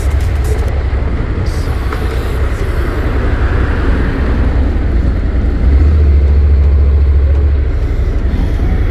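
Motorcycle running through city traffic, its engine mixed with low wind rumble on the microphone, which grows louder for about two seconds midway.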